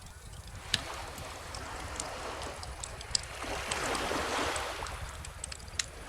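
Beach bonfire crackling, with scattered sharp pops (the loudest about a second in, around three seconds in and near the end), over a steady low rumble of calm ocean surf. A wave washes in and draws back around the middle.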